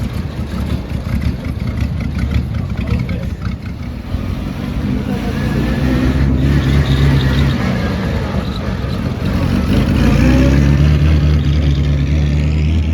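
Car engine running and revving, growing louder about halfway through, with a brief rise in pitch near the end.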